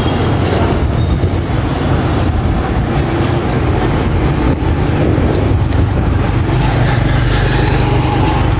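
A vehicle's engine running steadily while moving along a street, with road and traffic noise.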